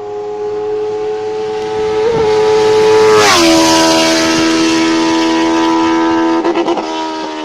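Benelli TNT 600's inline-four engine running hard through an SC Project exhaust. It holds a steady high note, then its pitch drops sharply about three seconds in and settles lower, with a brief flutter near the end.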